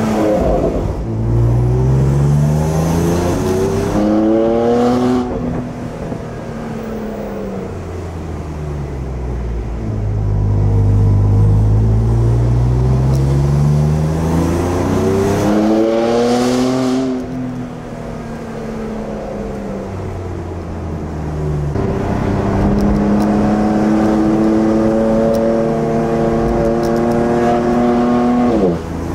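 BMW M4 GTS's twin-turbo 3.0-litre straight-six, heard from inside the cabin, pulling up through the revs three times under acceleration. Each pull ends with the revs dropping sharply, and the engine runs quieter between the pulls.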